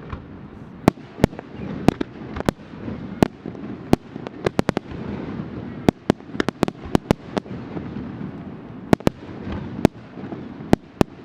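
Aerial fireworks shells bursting in quick, irregular succession: many sharp bangs and cracks, some in tight clusters, over a steady low rumble.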